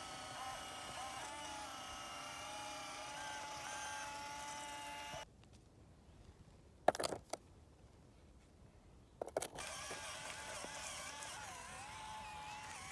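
Faint, steady motor whine that wavers slightly in pitch. It drops out about five seconds in for about four seconds, leaving near silence broken by a few sharp clicks, then returns.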